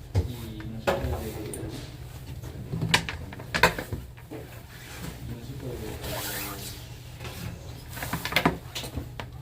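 Faint background voices over a steady low hum, broken by several sharp knocks and clicks of handling or clatter.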